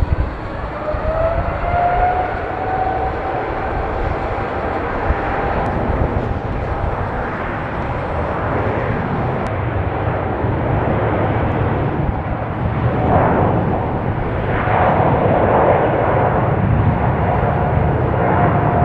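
Jet airliner taking off: a loud, steady rush of engine noise with a low rumble and a whine that rises in pitch about a second in and then holds.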